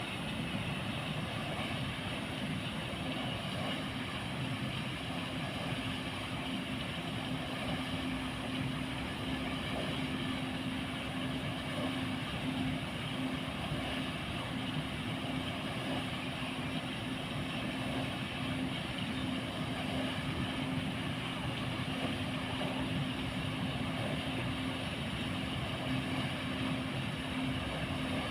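Motor-driven paddle-wheel aerator running steadily: a constant low hum over an even churning noise.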